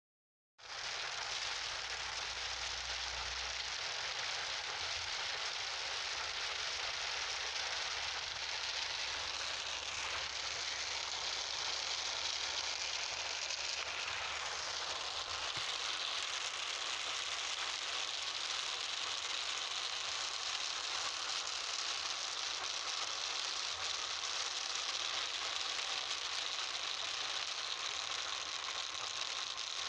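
Steady rain falling, an even hiss and patter that holds at one level throughout.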